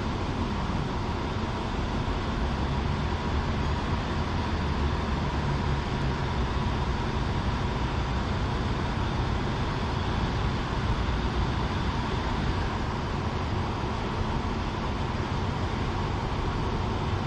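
Diesel train running at low speed, heard from on board: a steady low rumble with a faint steady whine above it.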